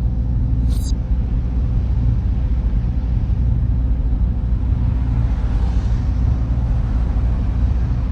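Server room ambience: a steady low rumble and hum of cooling fans and air handling, with a fan hiss that swells in the second half. A brief high-pitched rattle comes a little under a second in.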